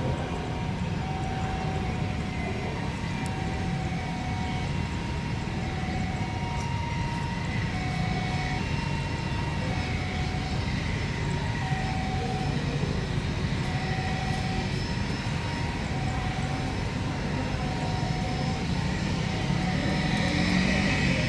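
Private jet's engines running steadily while it taxis, heard as an even low rumble with a high thin whine. A faint simple tune of two alternating notes sits over it.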